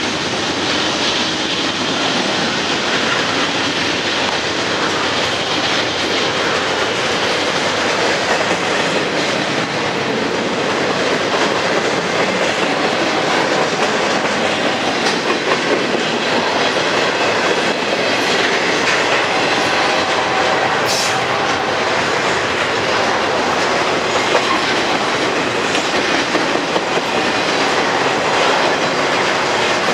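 Intermodal freight train cars rolling past close by: steady noise of steel wheels on rail, with one sharp click about two-thirds of the way through.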